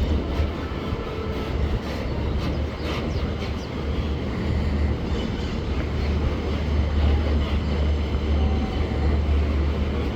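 Freight train loaded with bauxite ore rolling past, a steady low rumble of wheels on rail with a few faint clicks about two to three seconds in.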